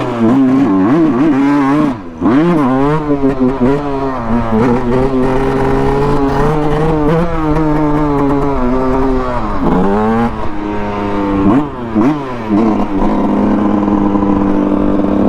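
Dirt bike engine under way, its pitch repeatedly climbing and dropping with throttle and gear changes, with sharp drops about two seconds in and again around ten and twelve seconds, then holding a steady speed near the end.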